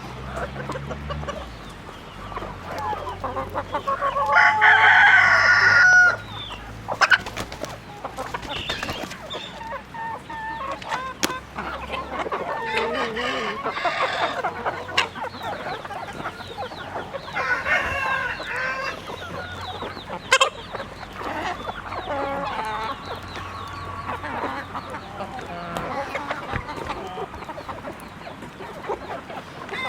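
Chickens clucking, with a rooster crowing loudly about four seconds in and again past the middle. A couple of sharp knocks stand out.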